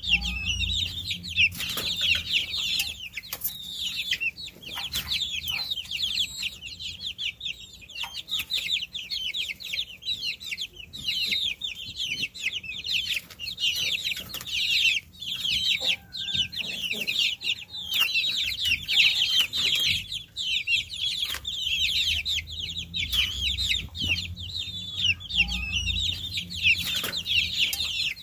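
A brood of baby chicks peeping nonstop, many high, short chirps overlapping one another.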